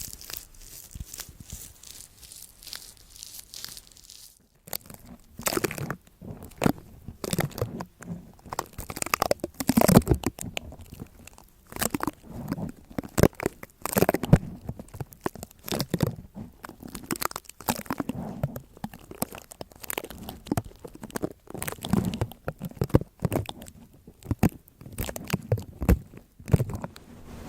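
Close-miked crunching and crinkling: a dense, irregular run of short crackles and taps, with a brief pause about four and a half seconds in before it picks up again.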